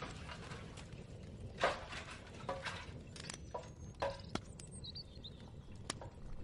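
Kitchen ambience: a steady low rumble with scattered knocks and clinks of cookware and utensils, the loudest about a second and a half in, and a few short bird chirps in the background.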